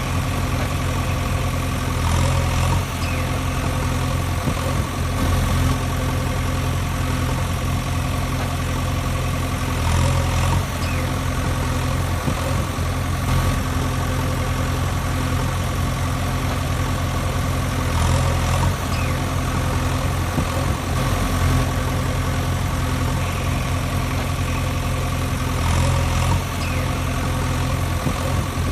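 A steady, idling tractor engine sound, swelling slightly about every eight seconds as the same recording loops.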